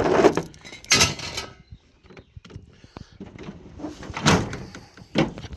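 Pickup truck tailgate being handled, giving a few separate metal clunks and rattles: one about a second in, a louder one past the middle, and a sharp knock near the end.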